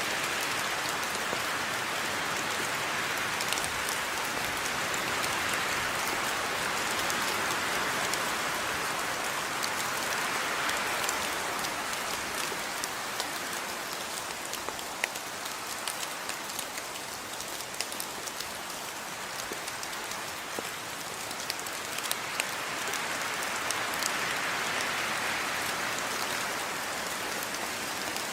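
Steady rain falling, a dense hiss with many scattered sharp drop ticks, swelling and easing gently in intensity.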